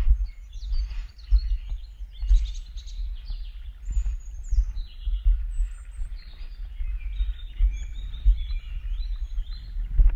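Small songbirds singing, many short overlapping chirping phrases with no pause. Under them runs a louder, uneven low rumble with irregular thumps, which sets the level peaks.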